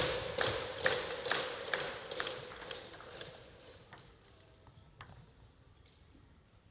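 Arena crowd clapping in unison about twice a second, fading out over the first three seconds, followed by a couple of single sharp clicks.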